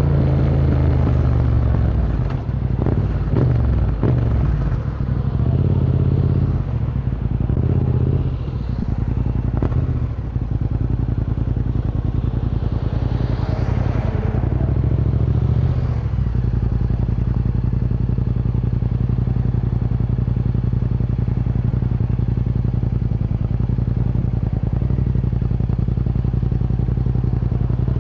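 Yamaha MT-07's parallel-twin engine through an Akrapovic Racing Line exhaust, its revs rising and falling through the first half, then holding one steady note for the rest.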